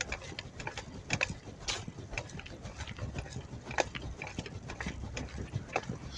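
Bicycle clicking and rattling as it is ridden: irregular sharp ticks from the bike's mechanism over a steady low rumble.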